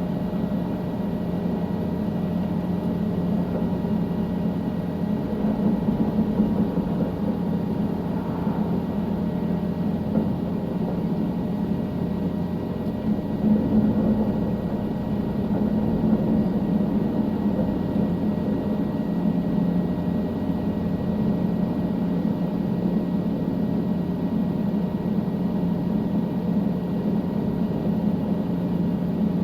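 Helicopter engine and rotor running steadily, heard from inside the cabin: a constant drone with a thin high whine, swelling slightly now and then.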